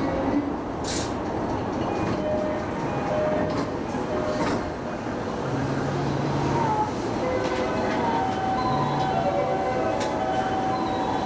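Electric commuter train running along the line, a steady rumble of wheels on rails with a few faint steady tones over it.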